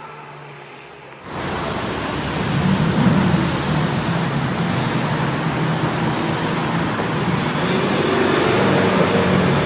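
A performance car's engine running loudly over road and traffic noise. It starts abruptly about a second in, and its pitch climbs near the end as the car accelerates.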